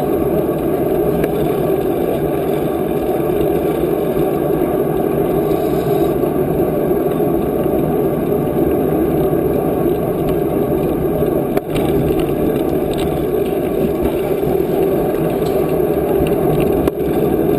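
Steady rushing of wind over the microphone of a camera carried on a moving bicycle, with a couple of brief dips.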